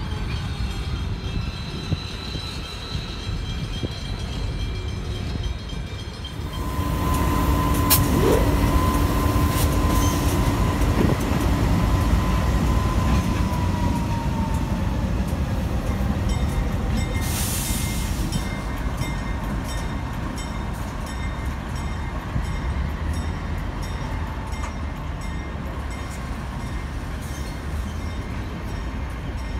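Pacific National freight train led by diesel-electric locomotive 8122 and a second diesel locomotive, passing close. The low engine rumble grows much louder about six or seven seconds in as the locomotives go by, with a steady engine whine. The train then rumbles on with scattered clicks of wheels over the rails as the wagons roll past.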